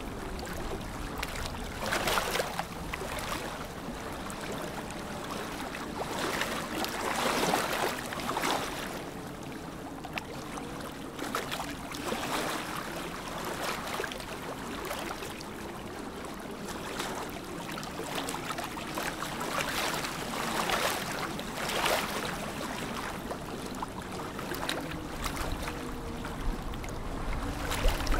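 Lake water lapping, small waves washing in and swelling every few seconds.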